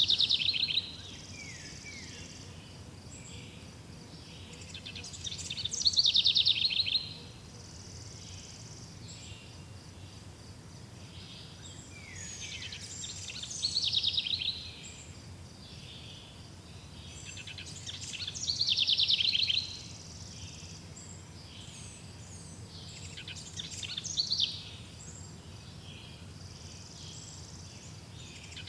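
A songbird repeating a short, rapid trilling phrase that falls in pitch, about once every five to six seconds, over a steady low background hum.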